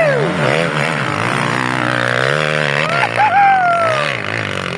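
Dirt bike engines running, their pitch rising and falling as the throttle is worked. About three seconds in, one engine's pitch drops steadily over about a second.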